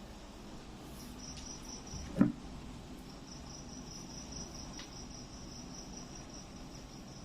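Crickets trilling steadily in a high, pulsing chirp, with one short loud sound about two seconds in.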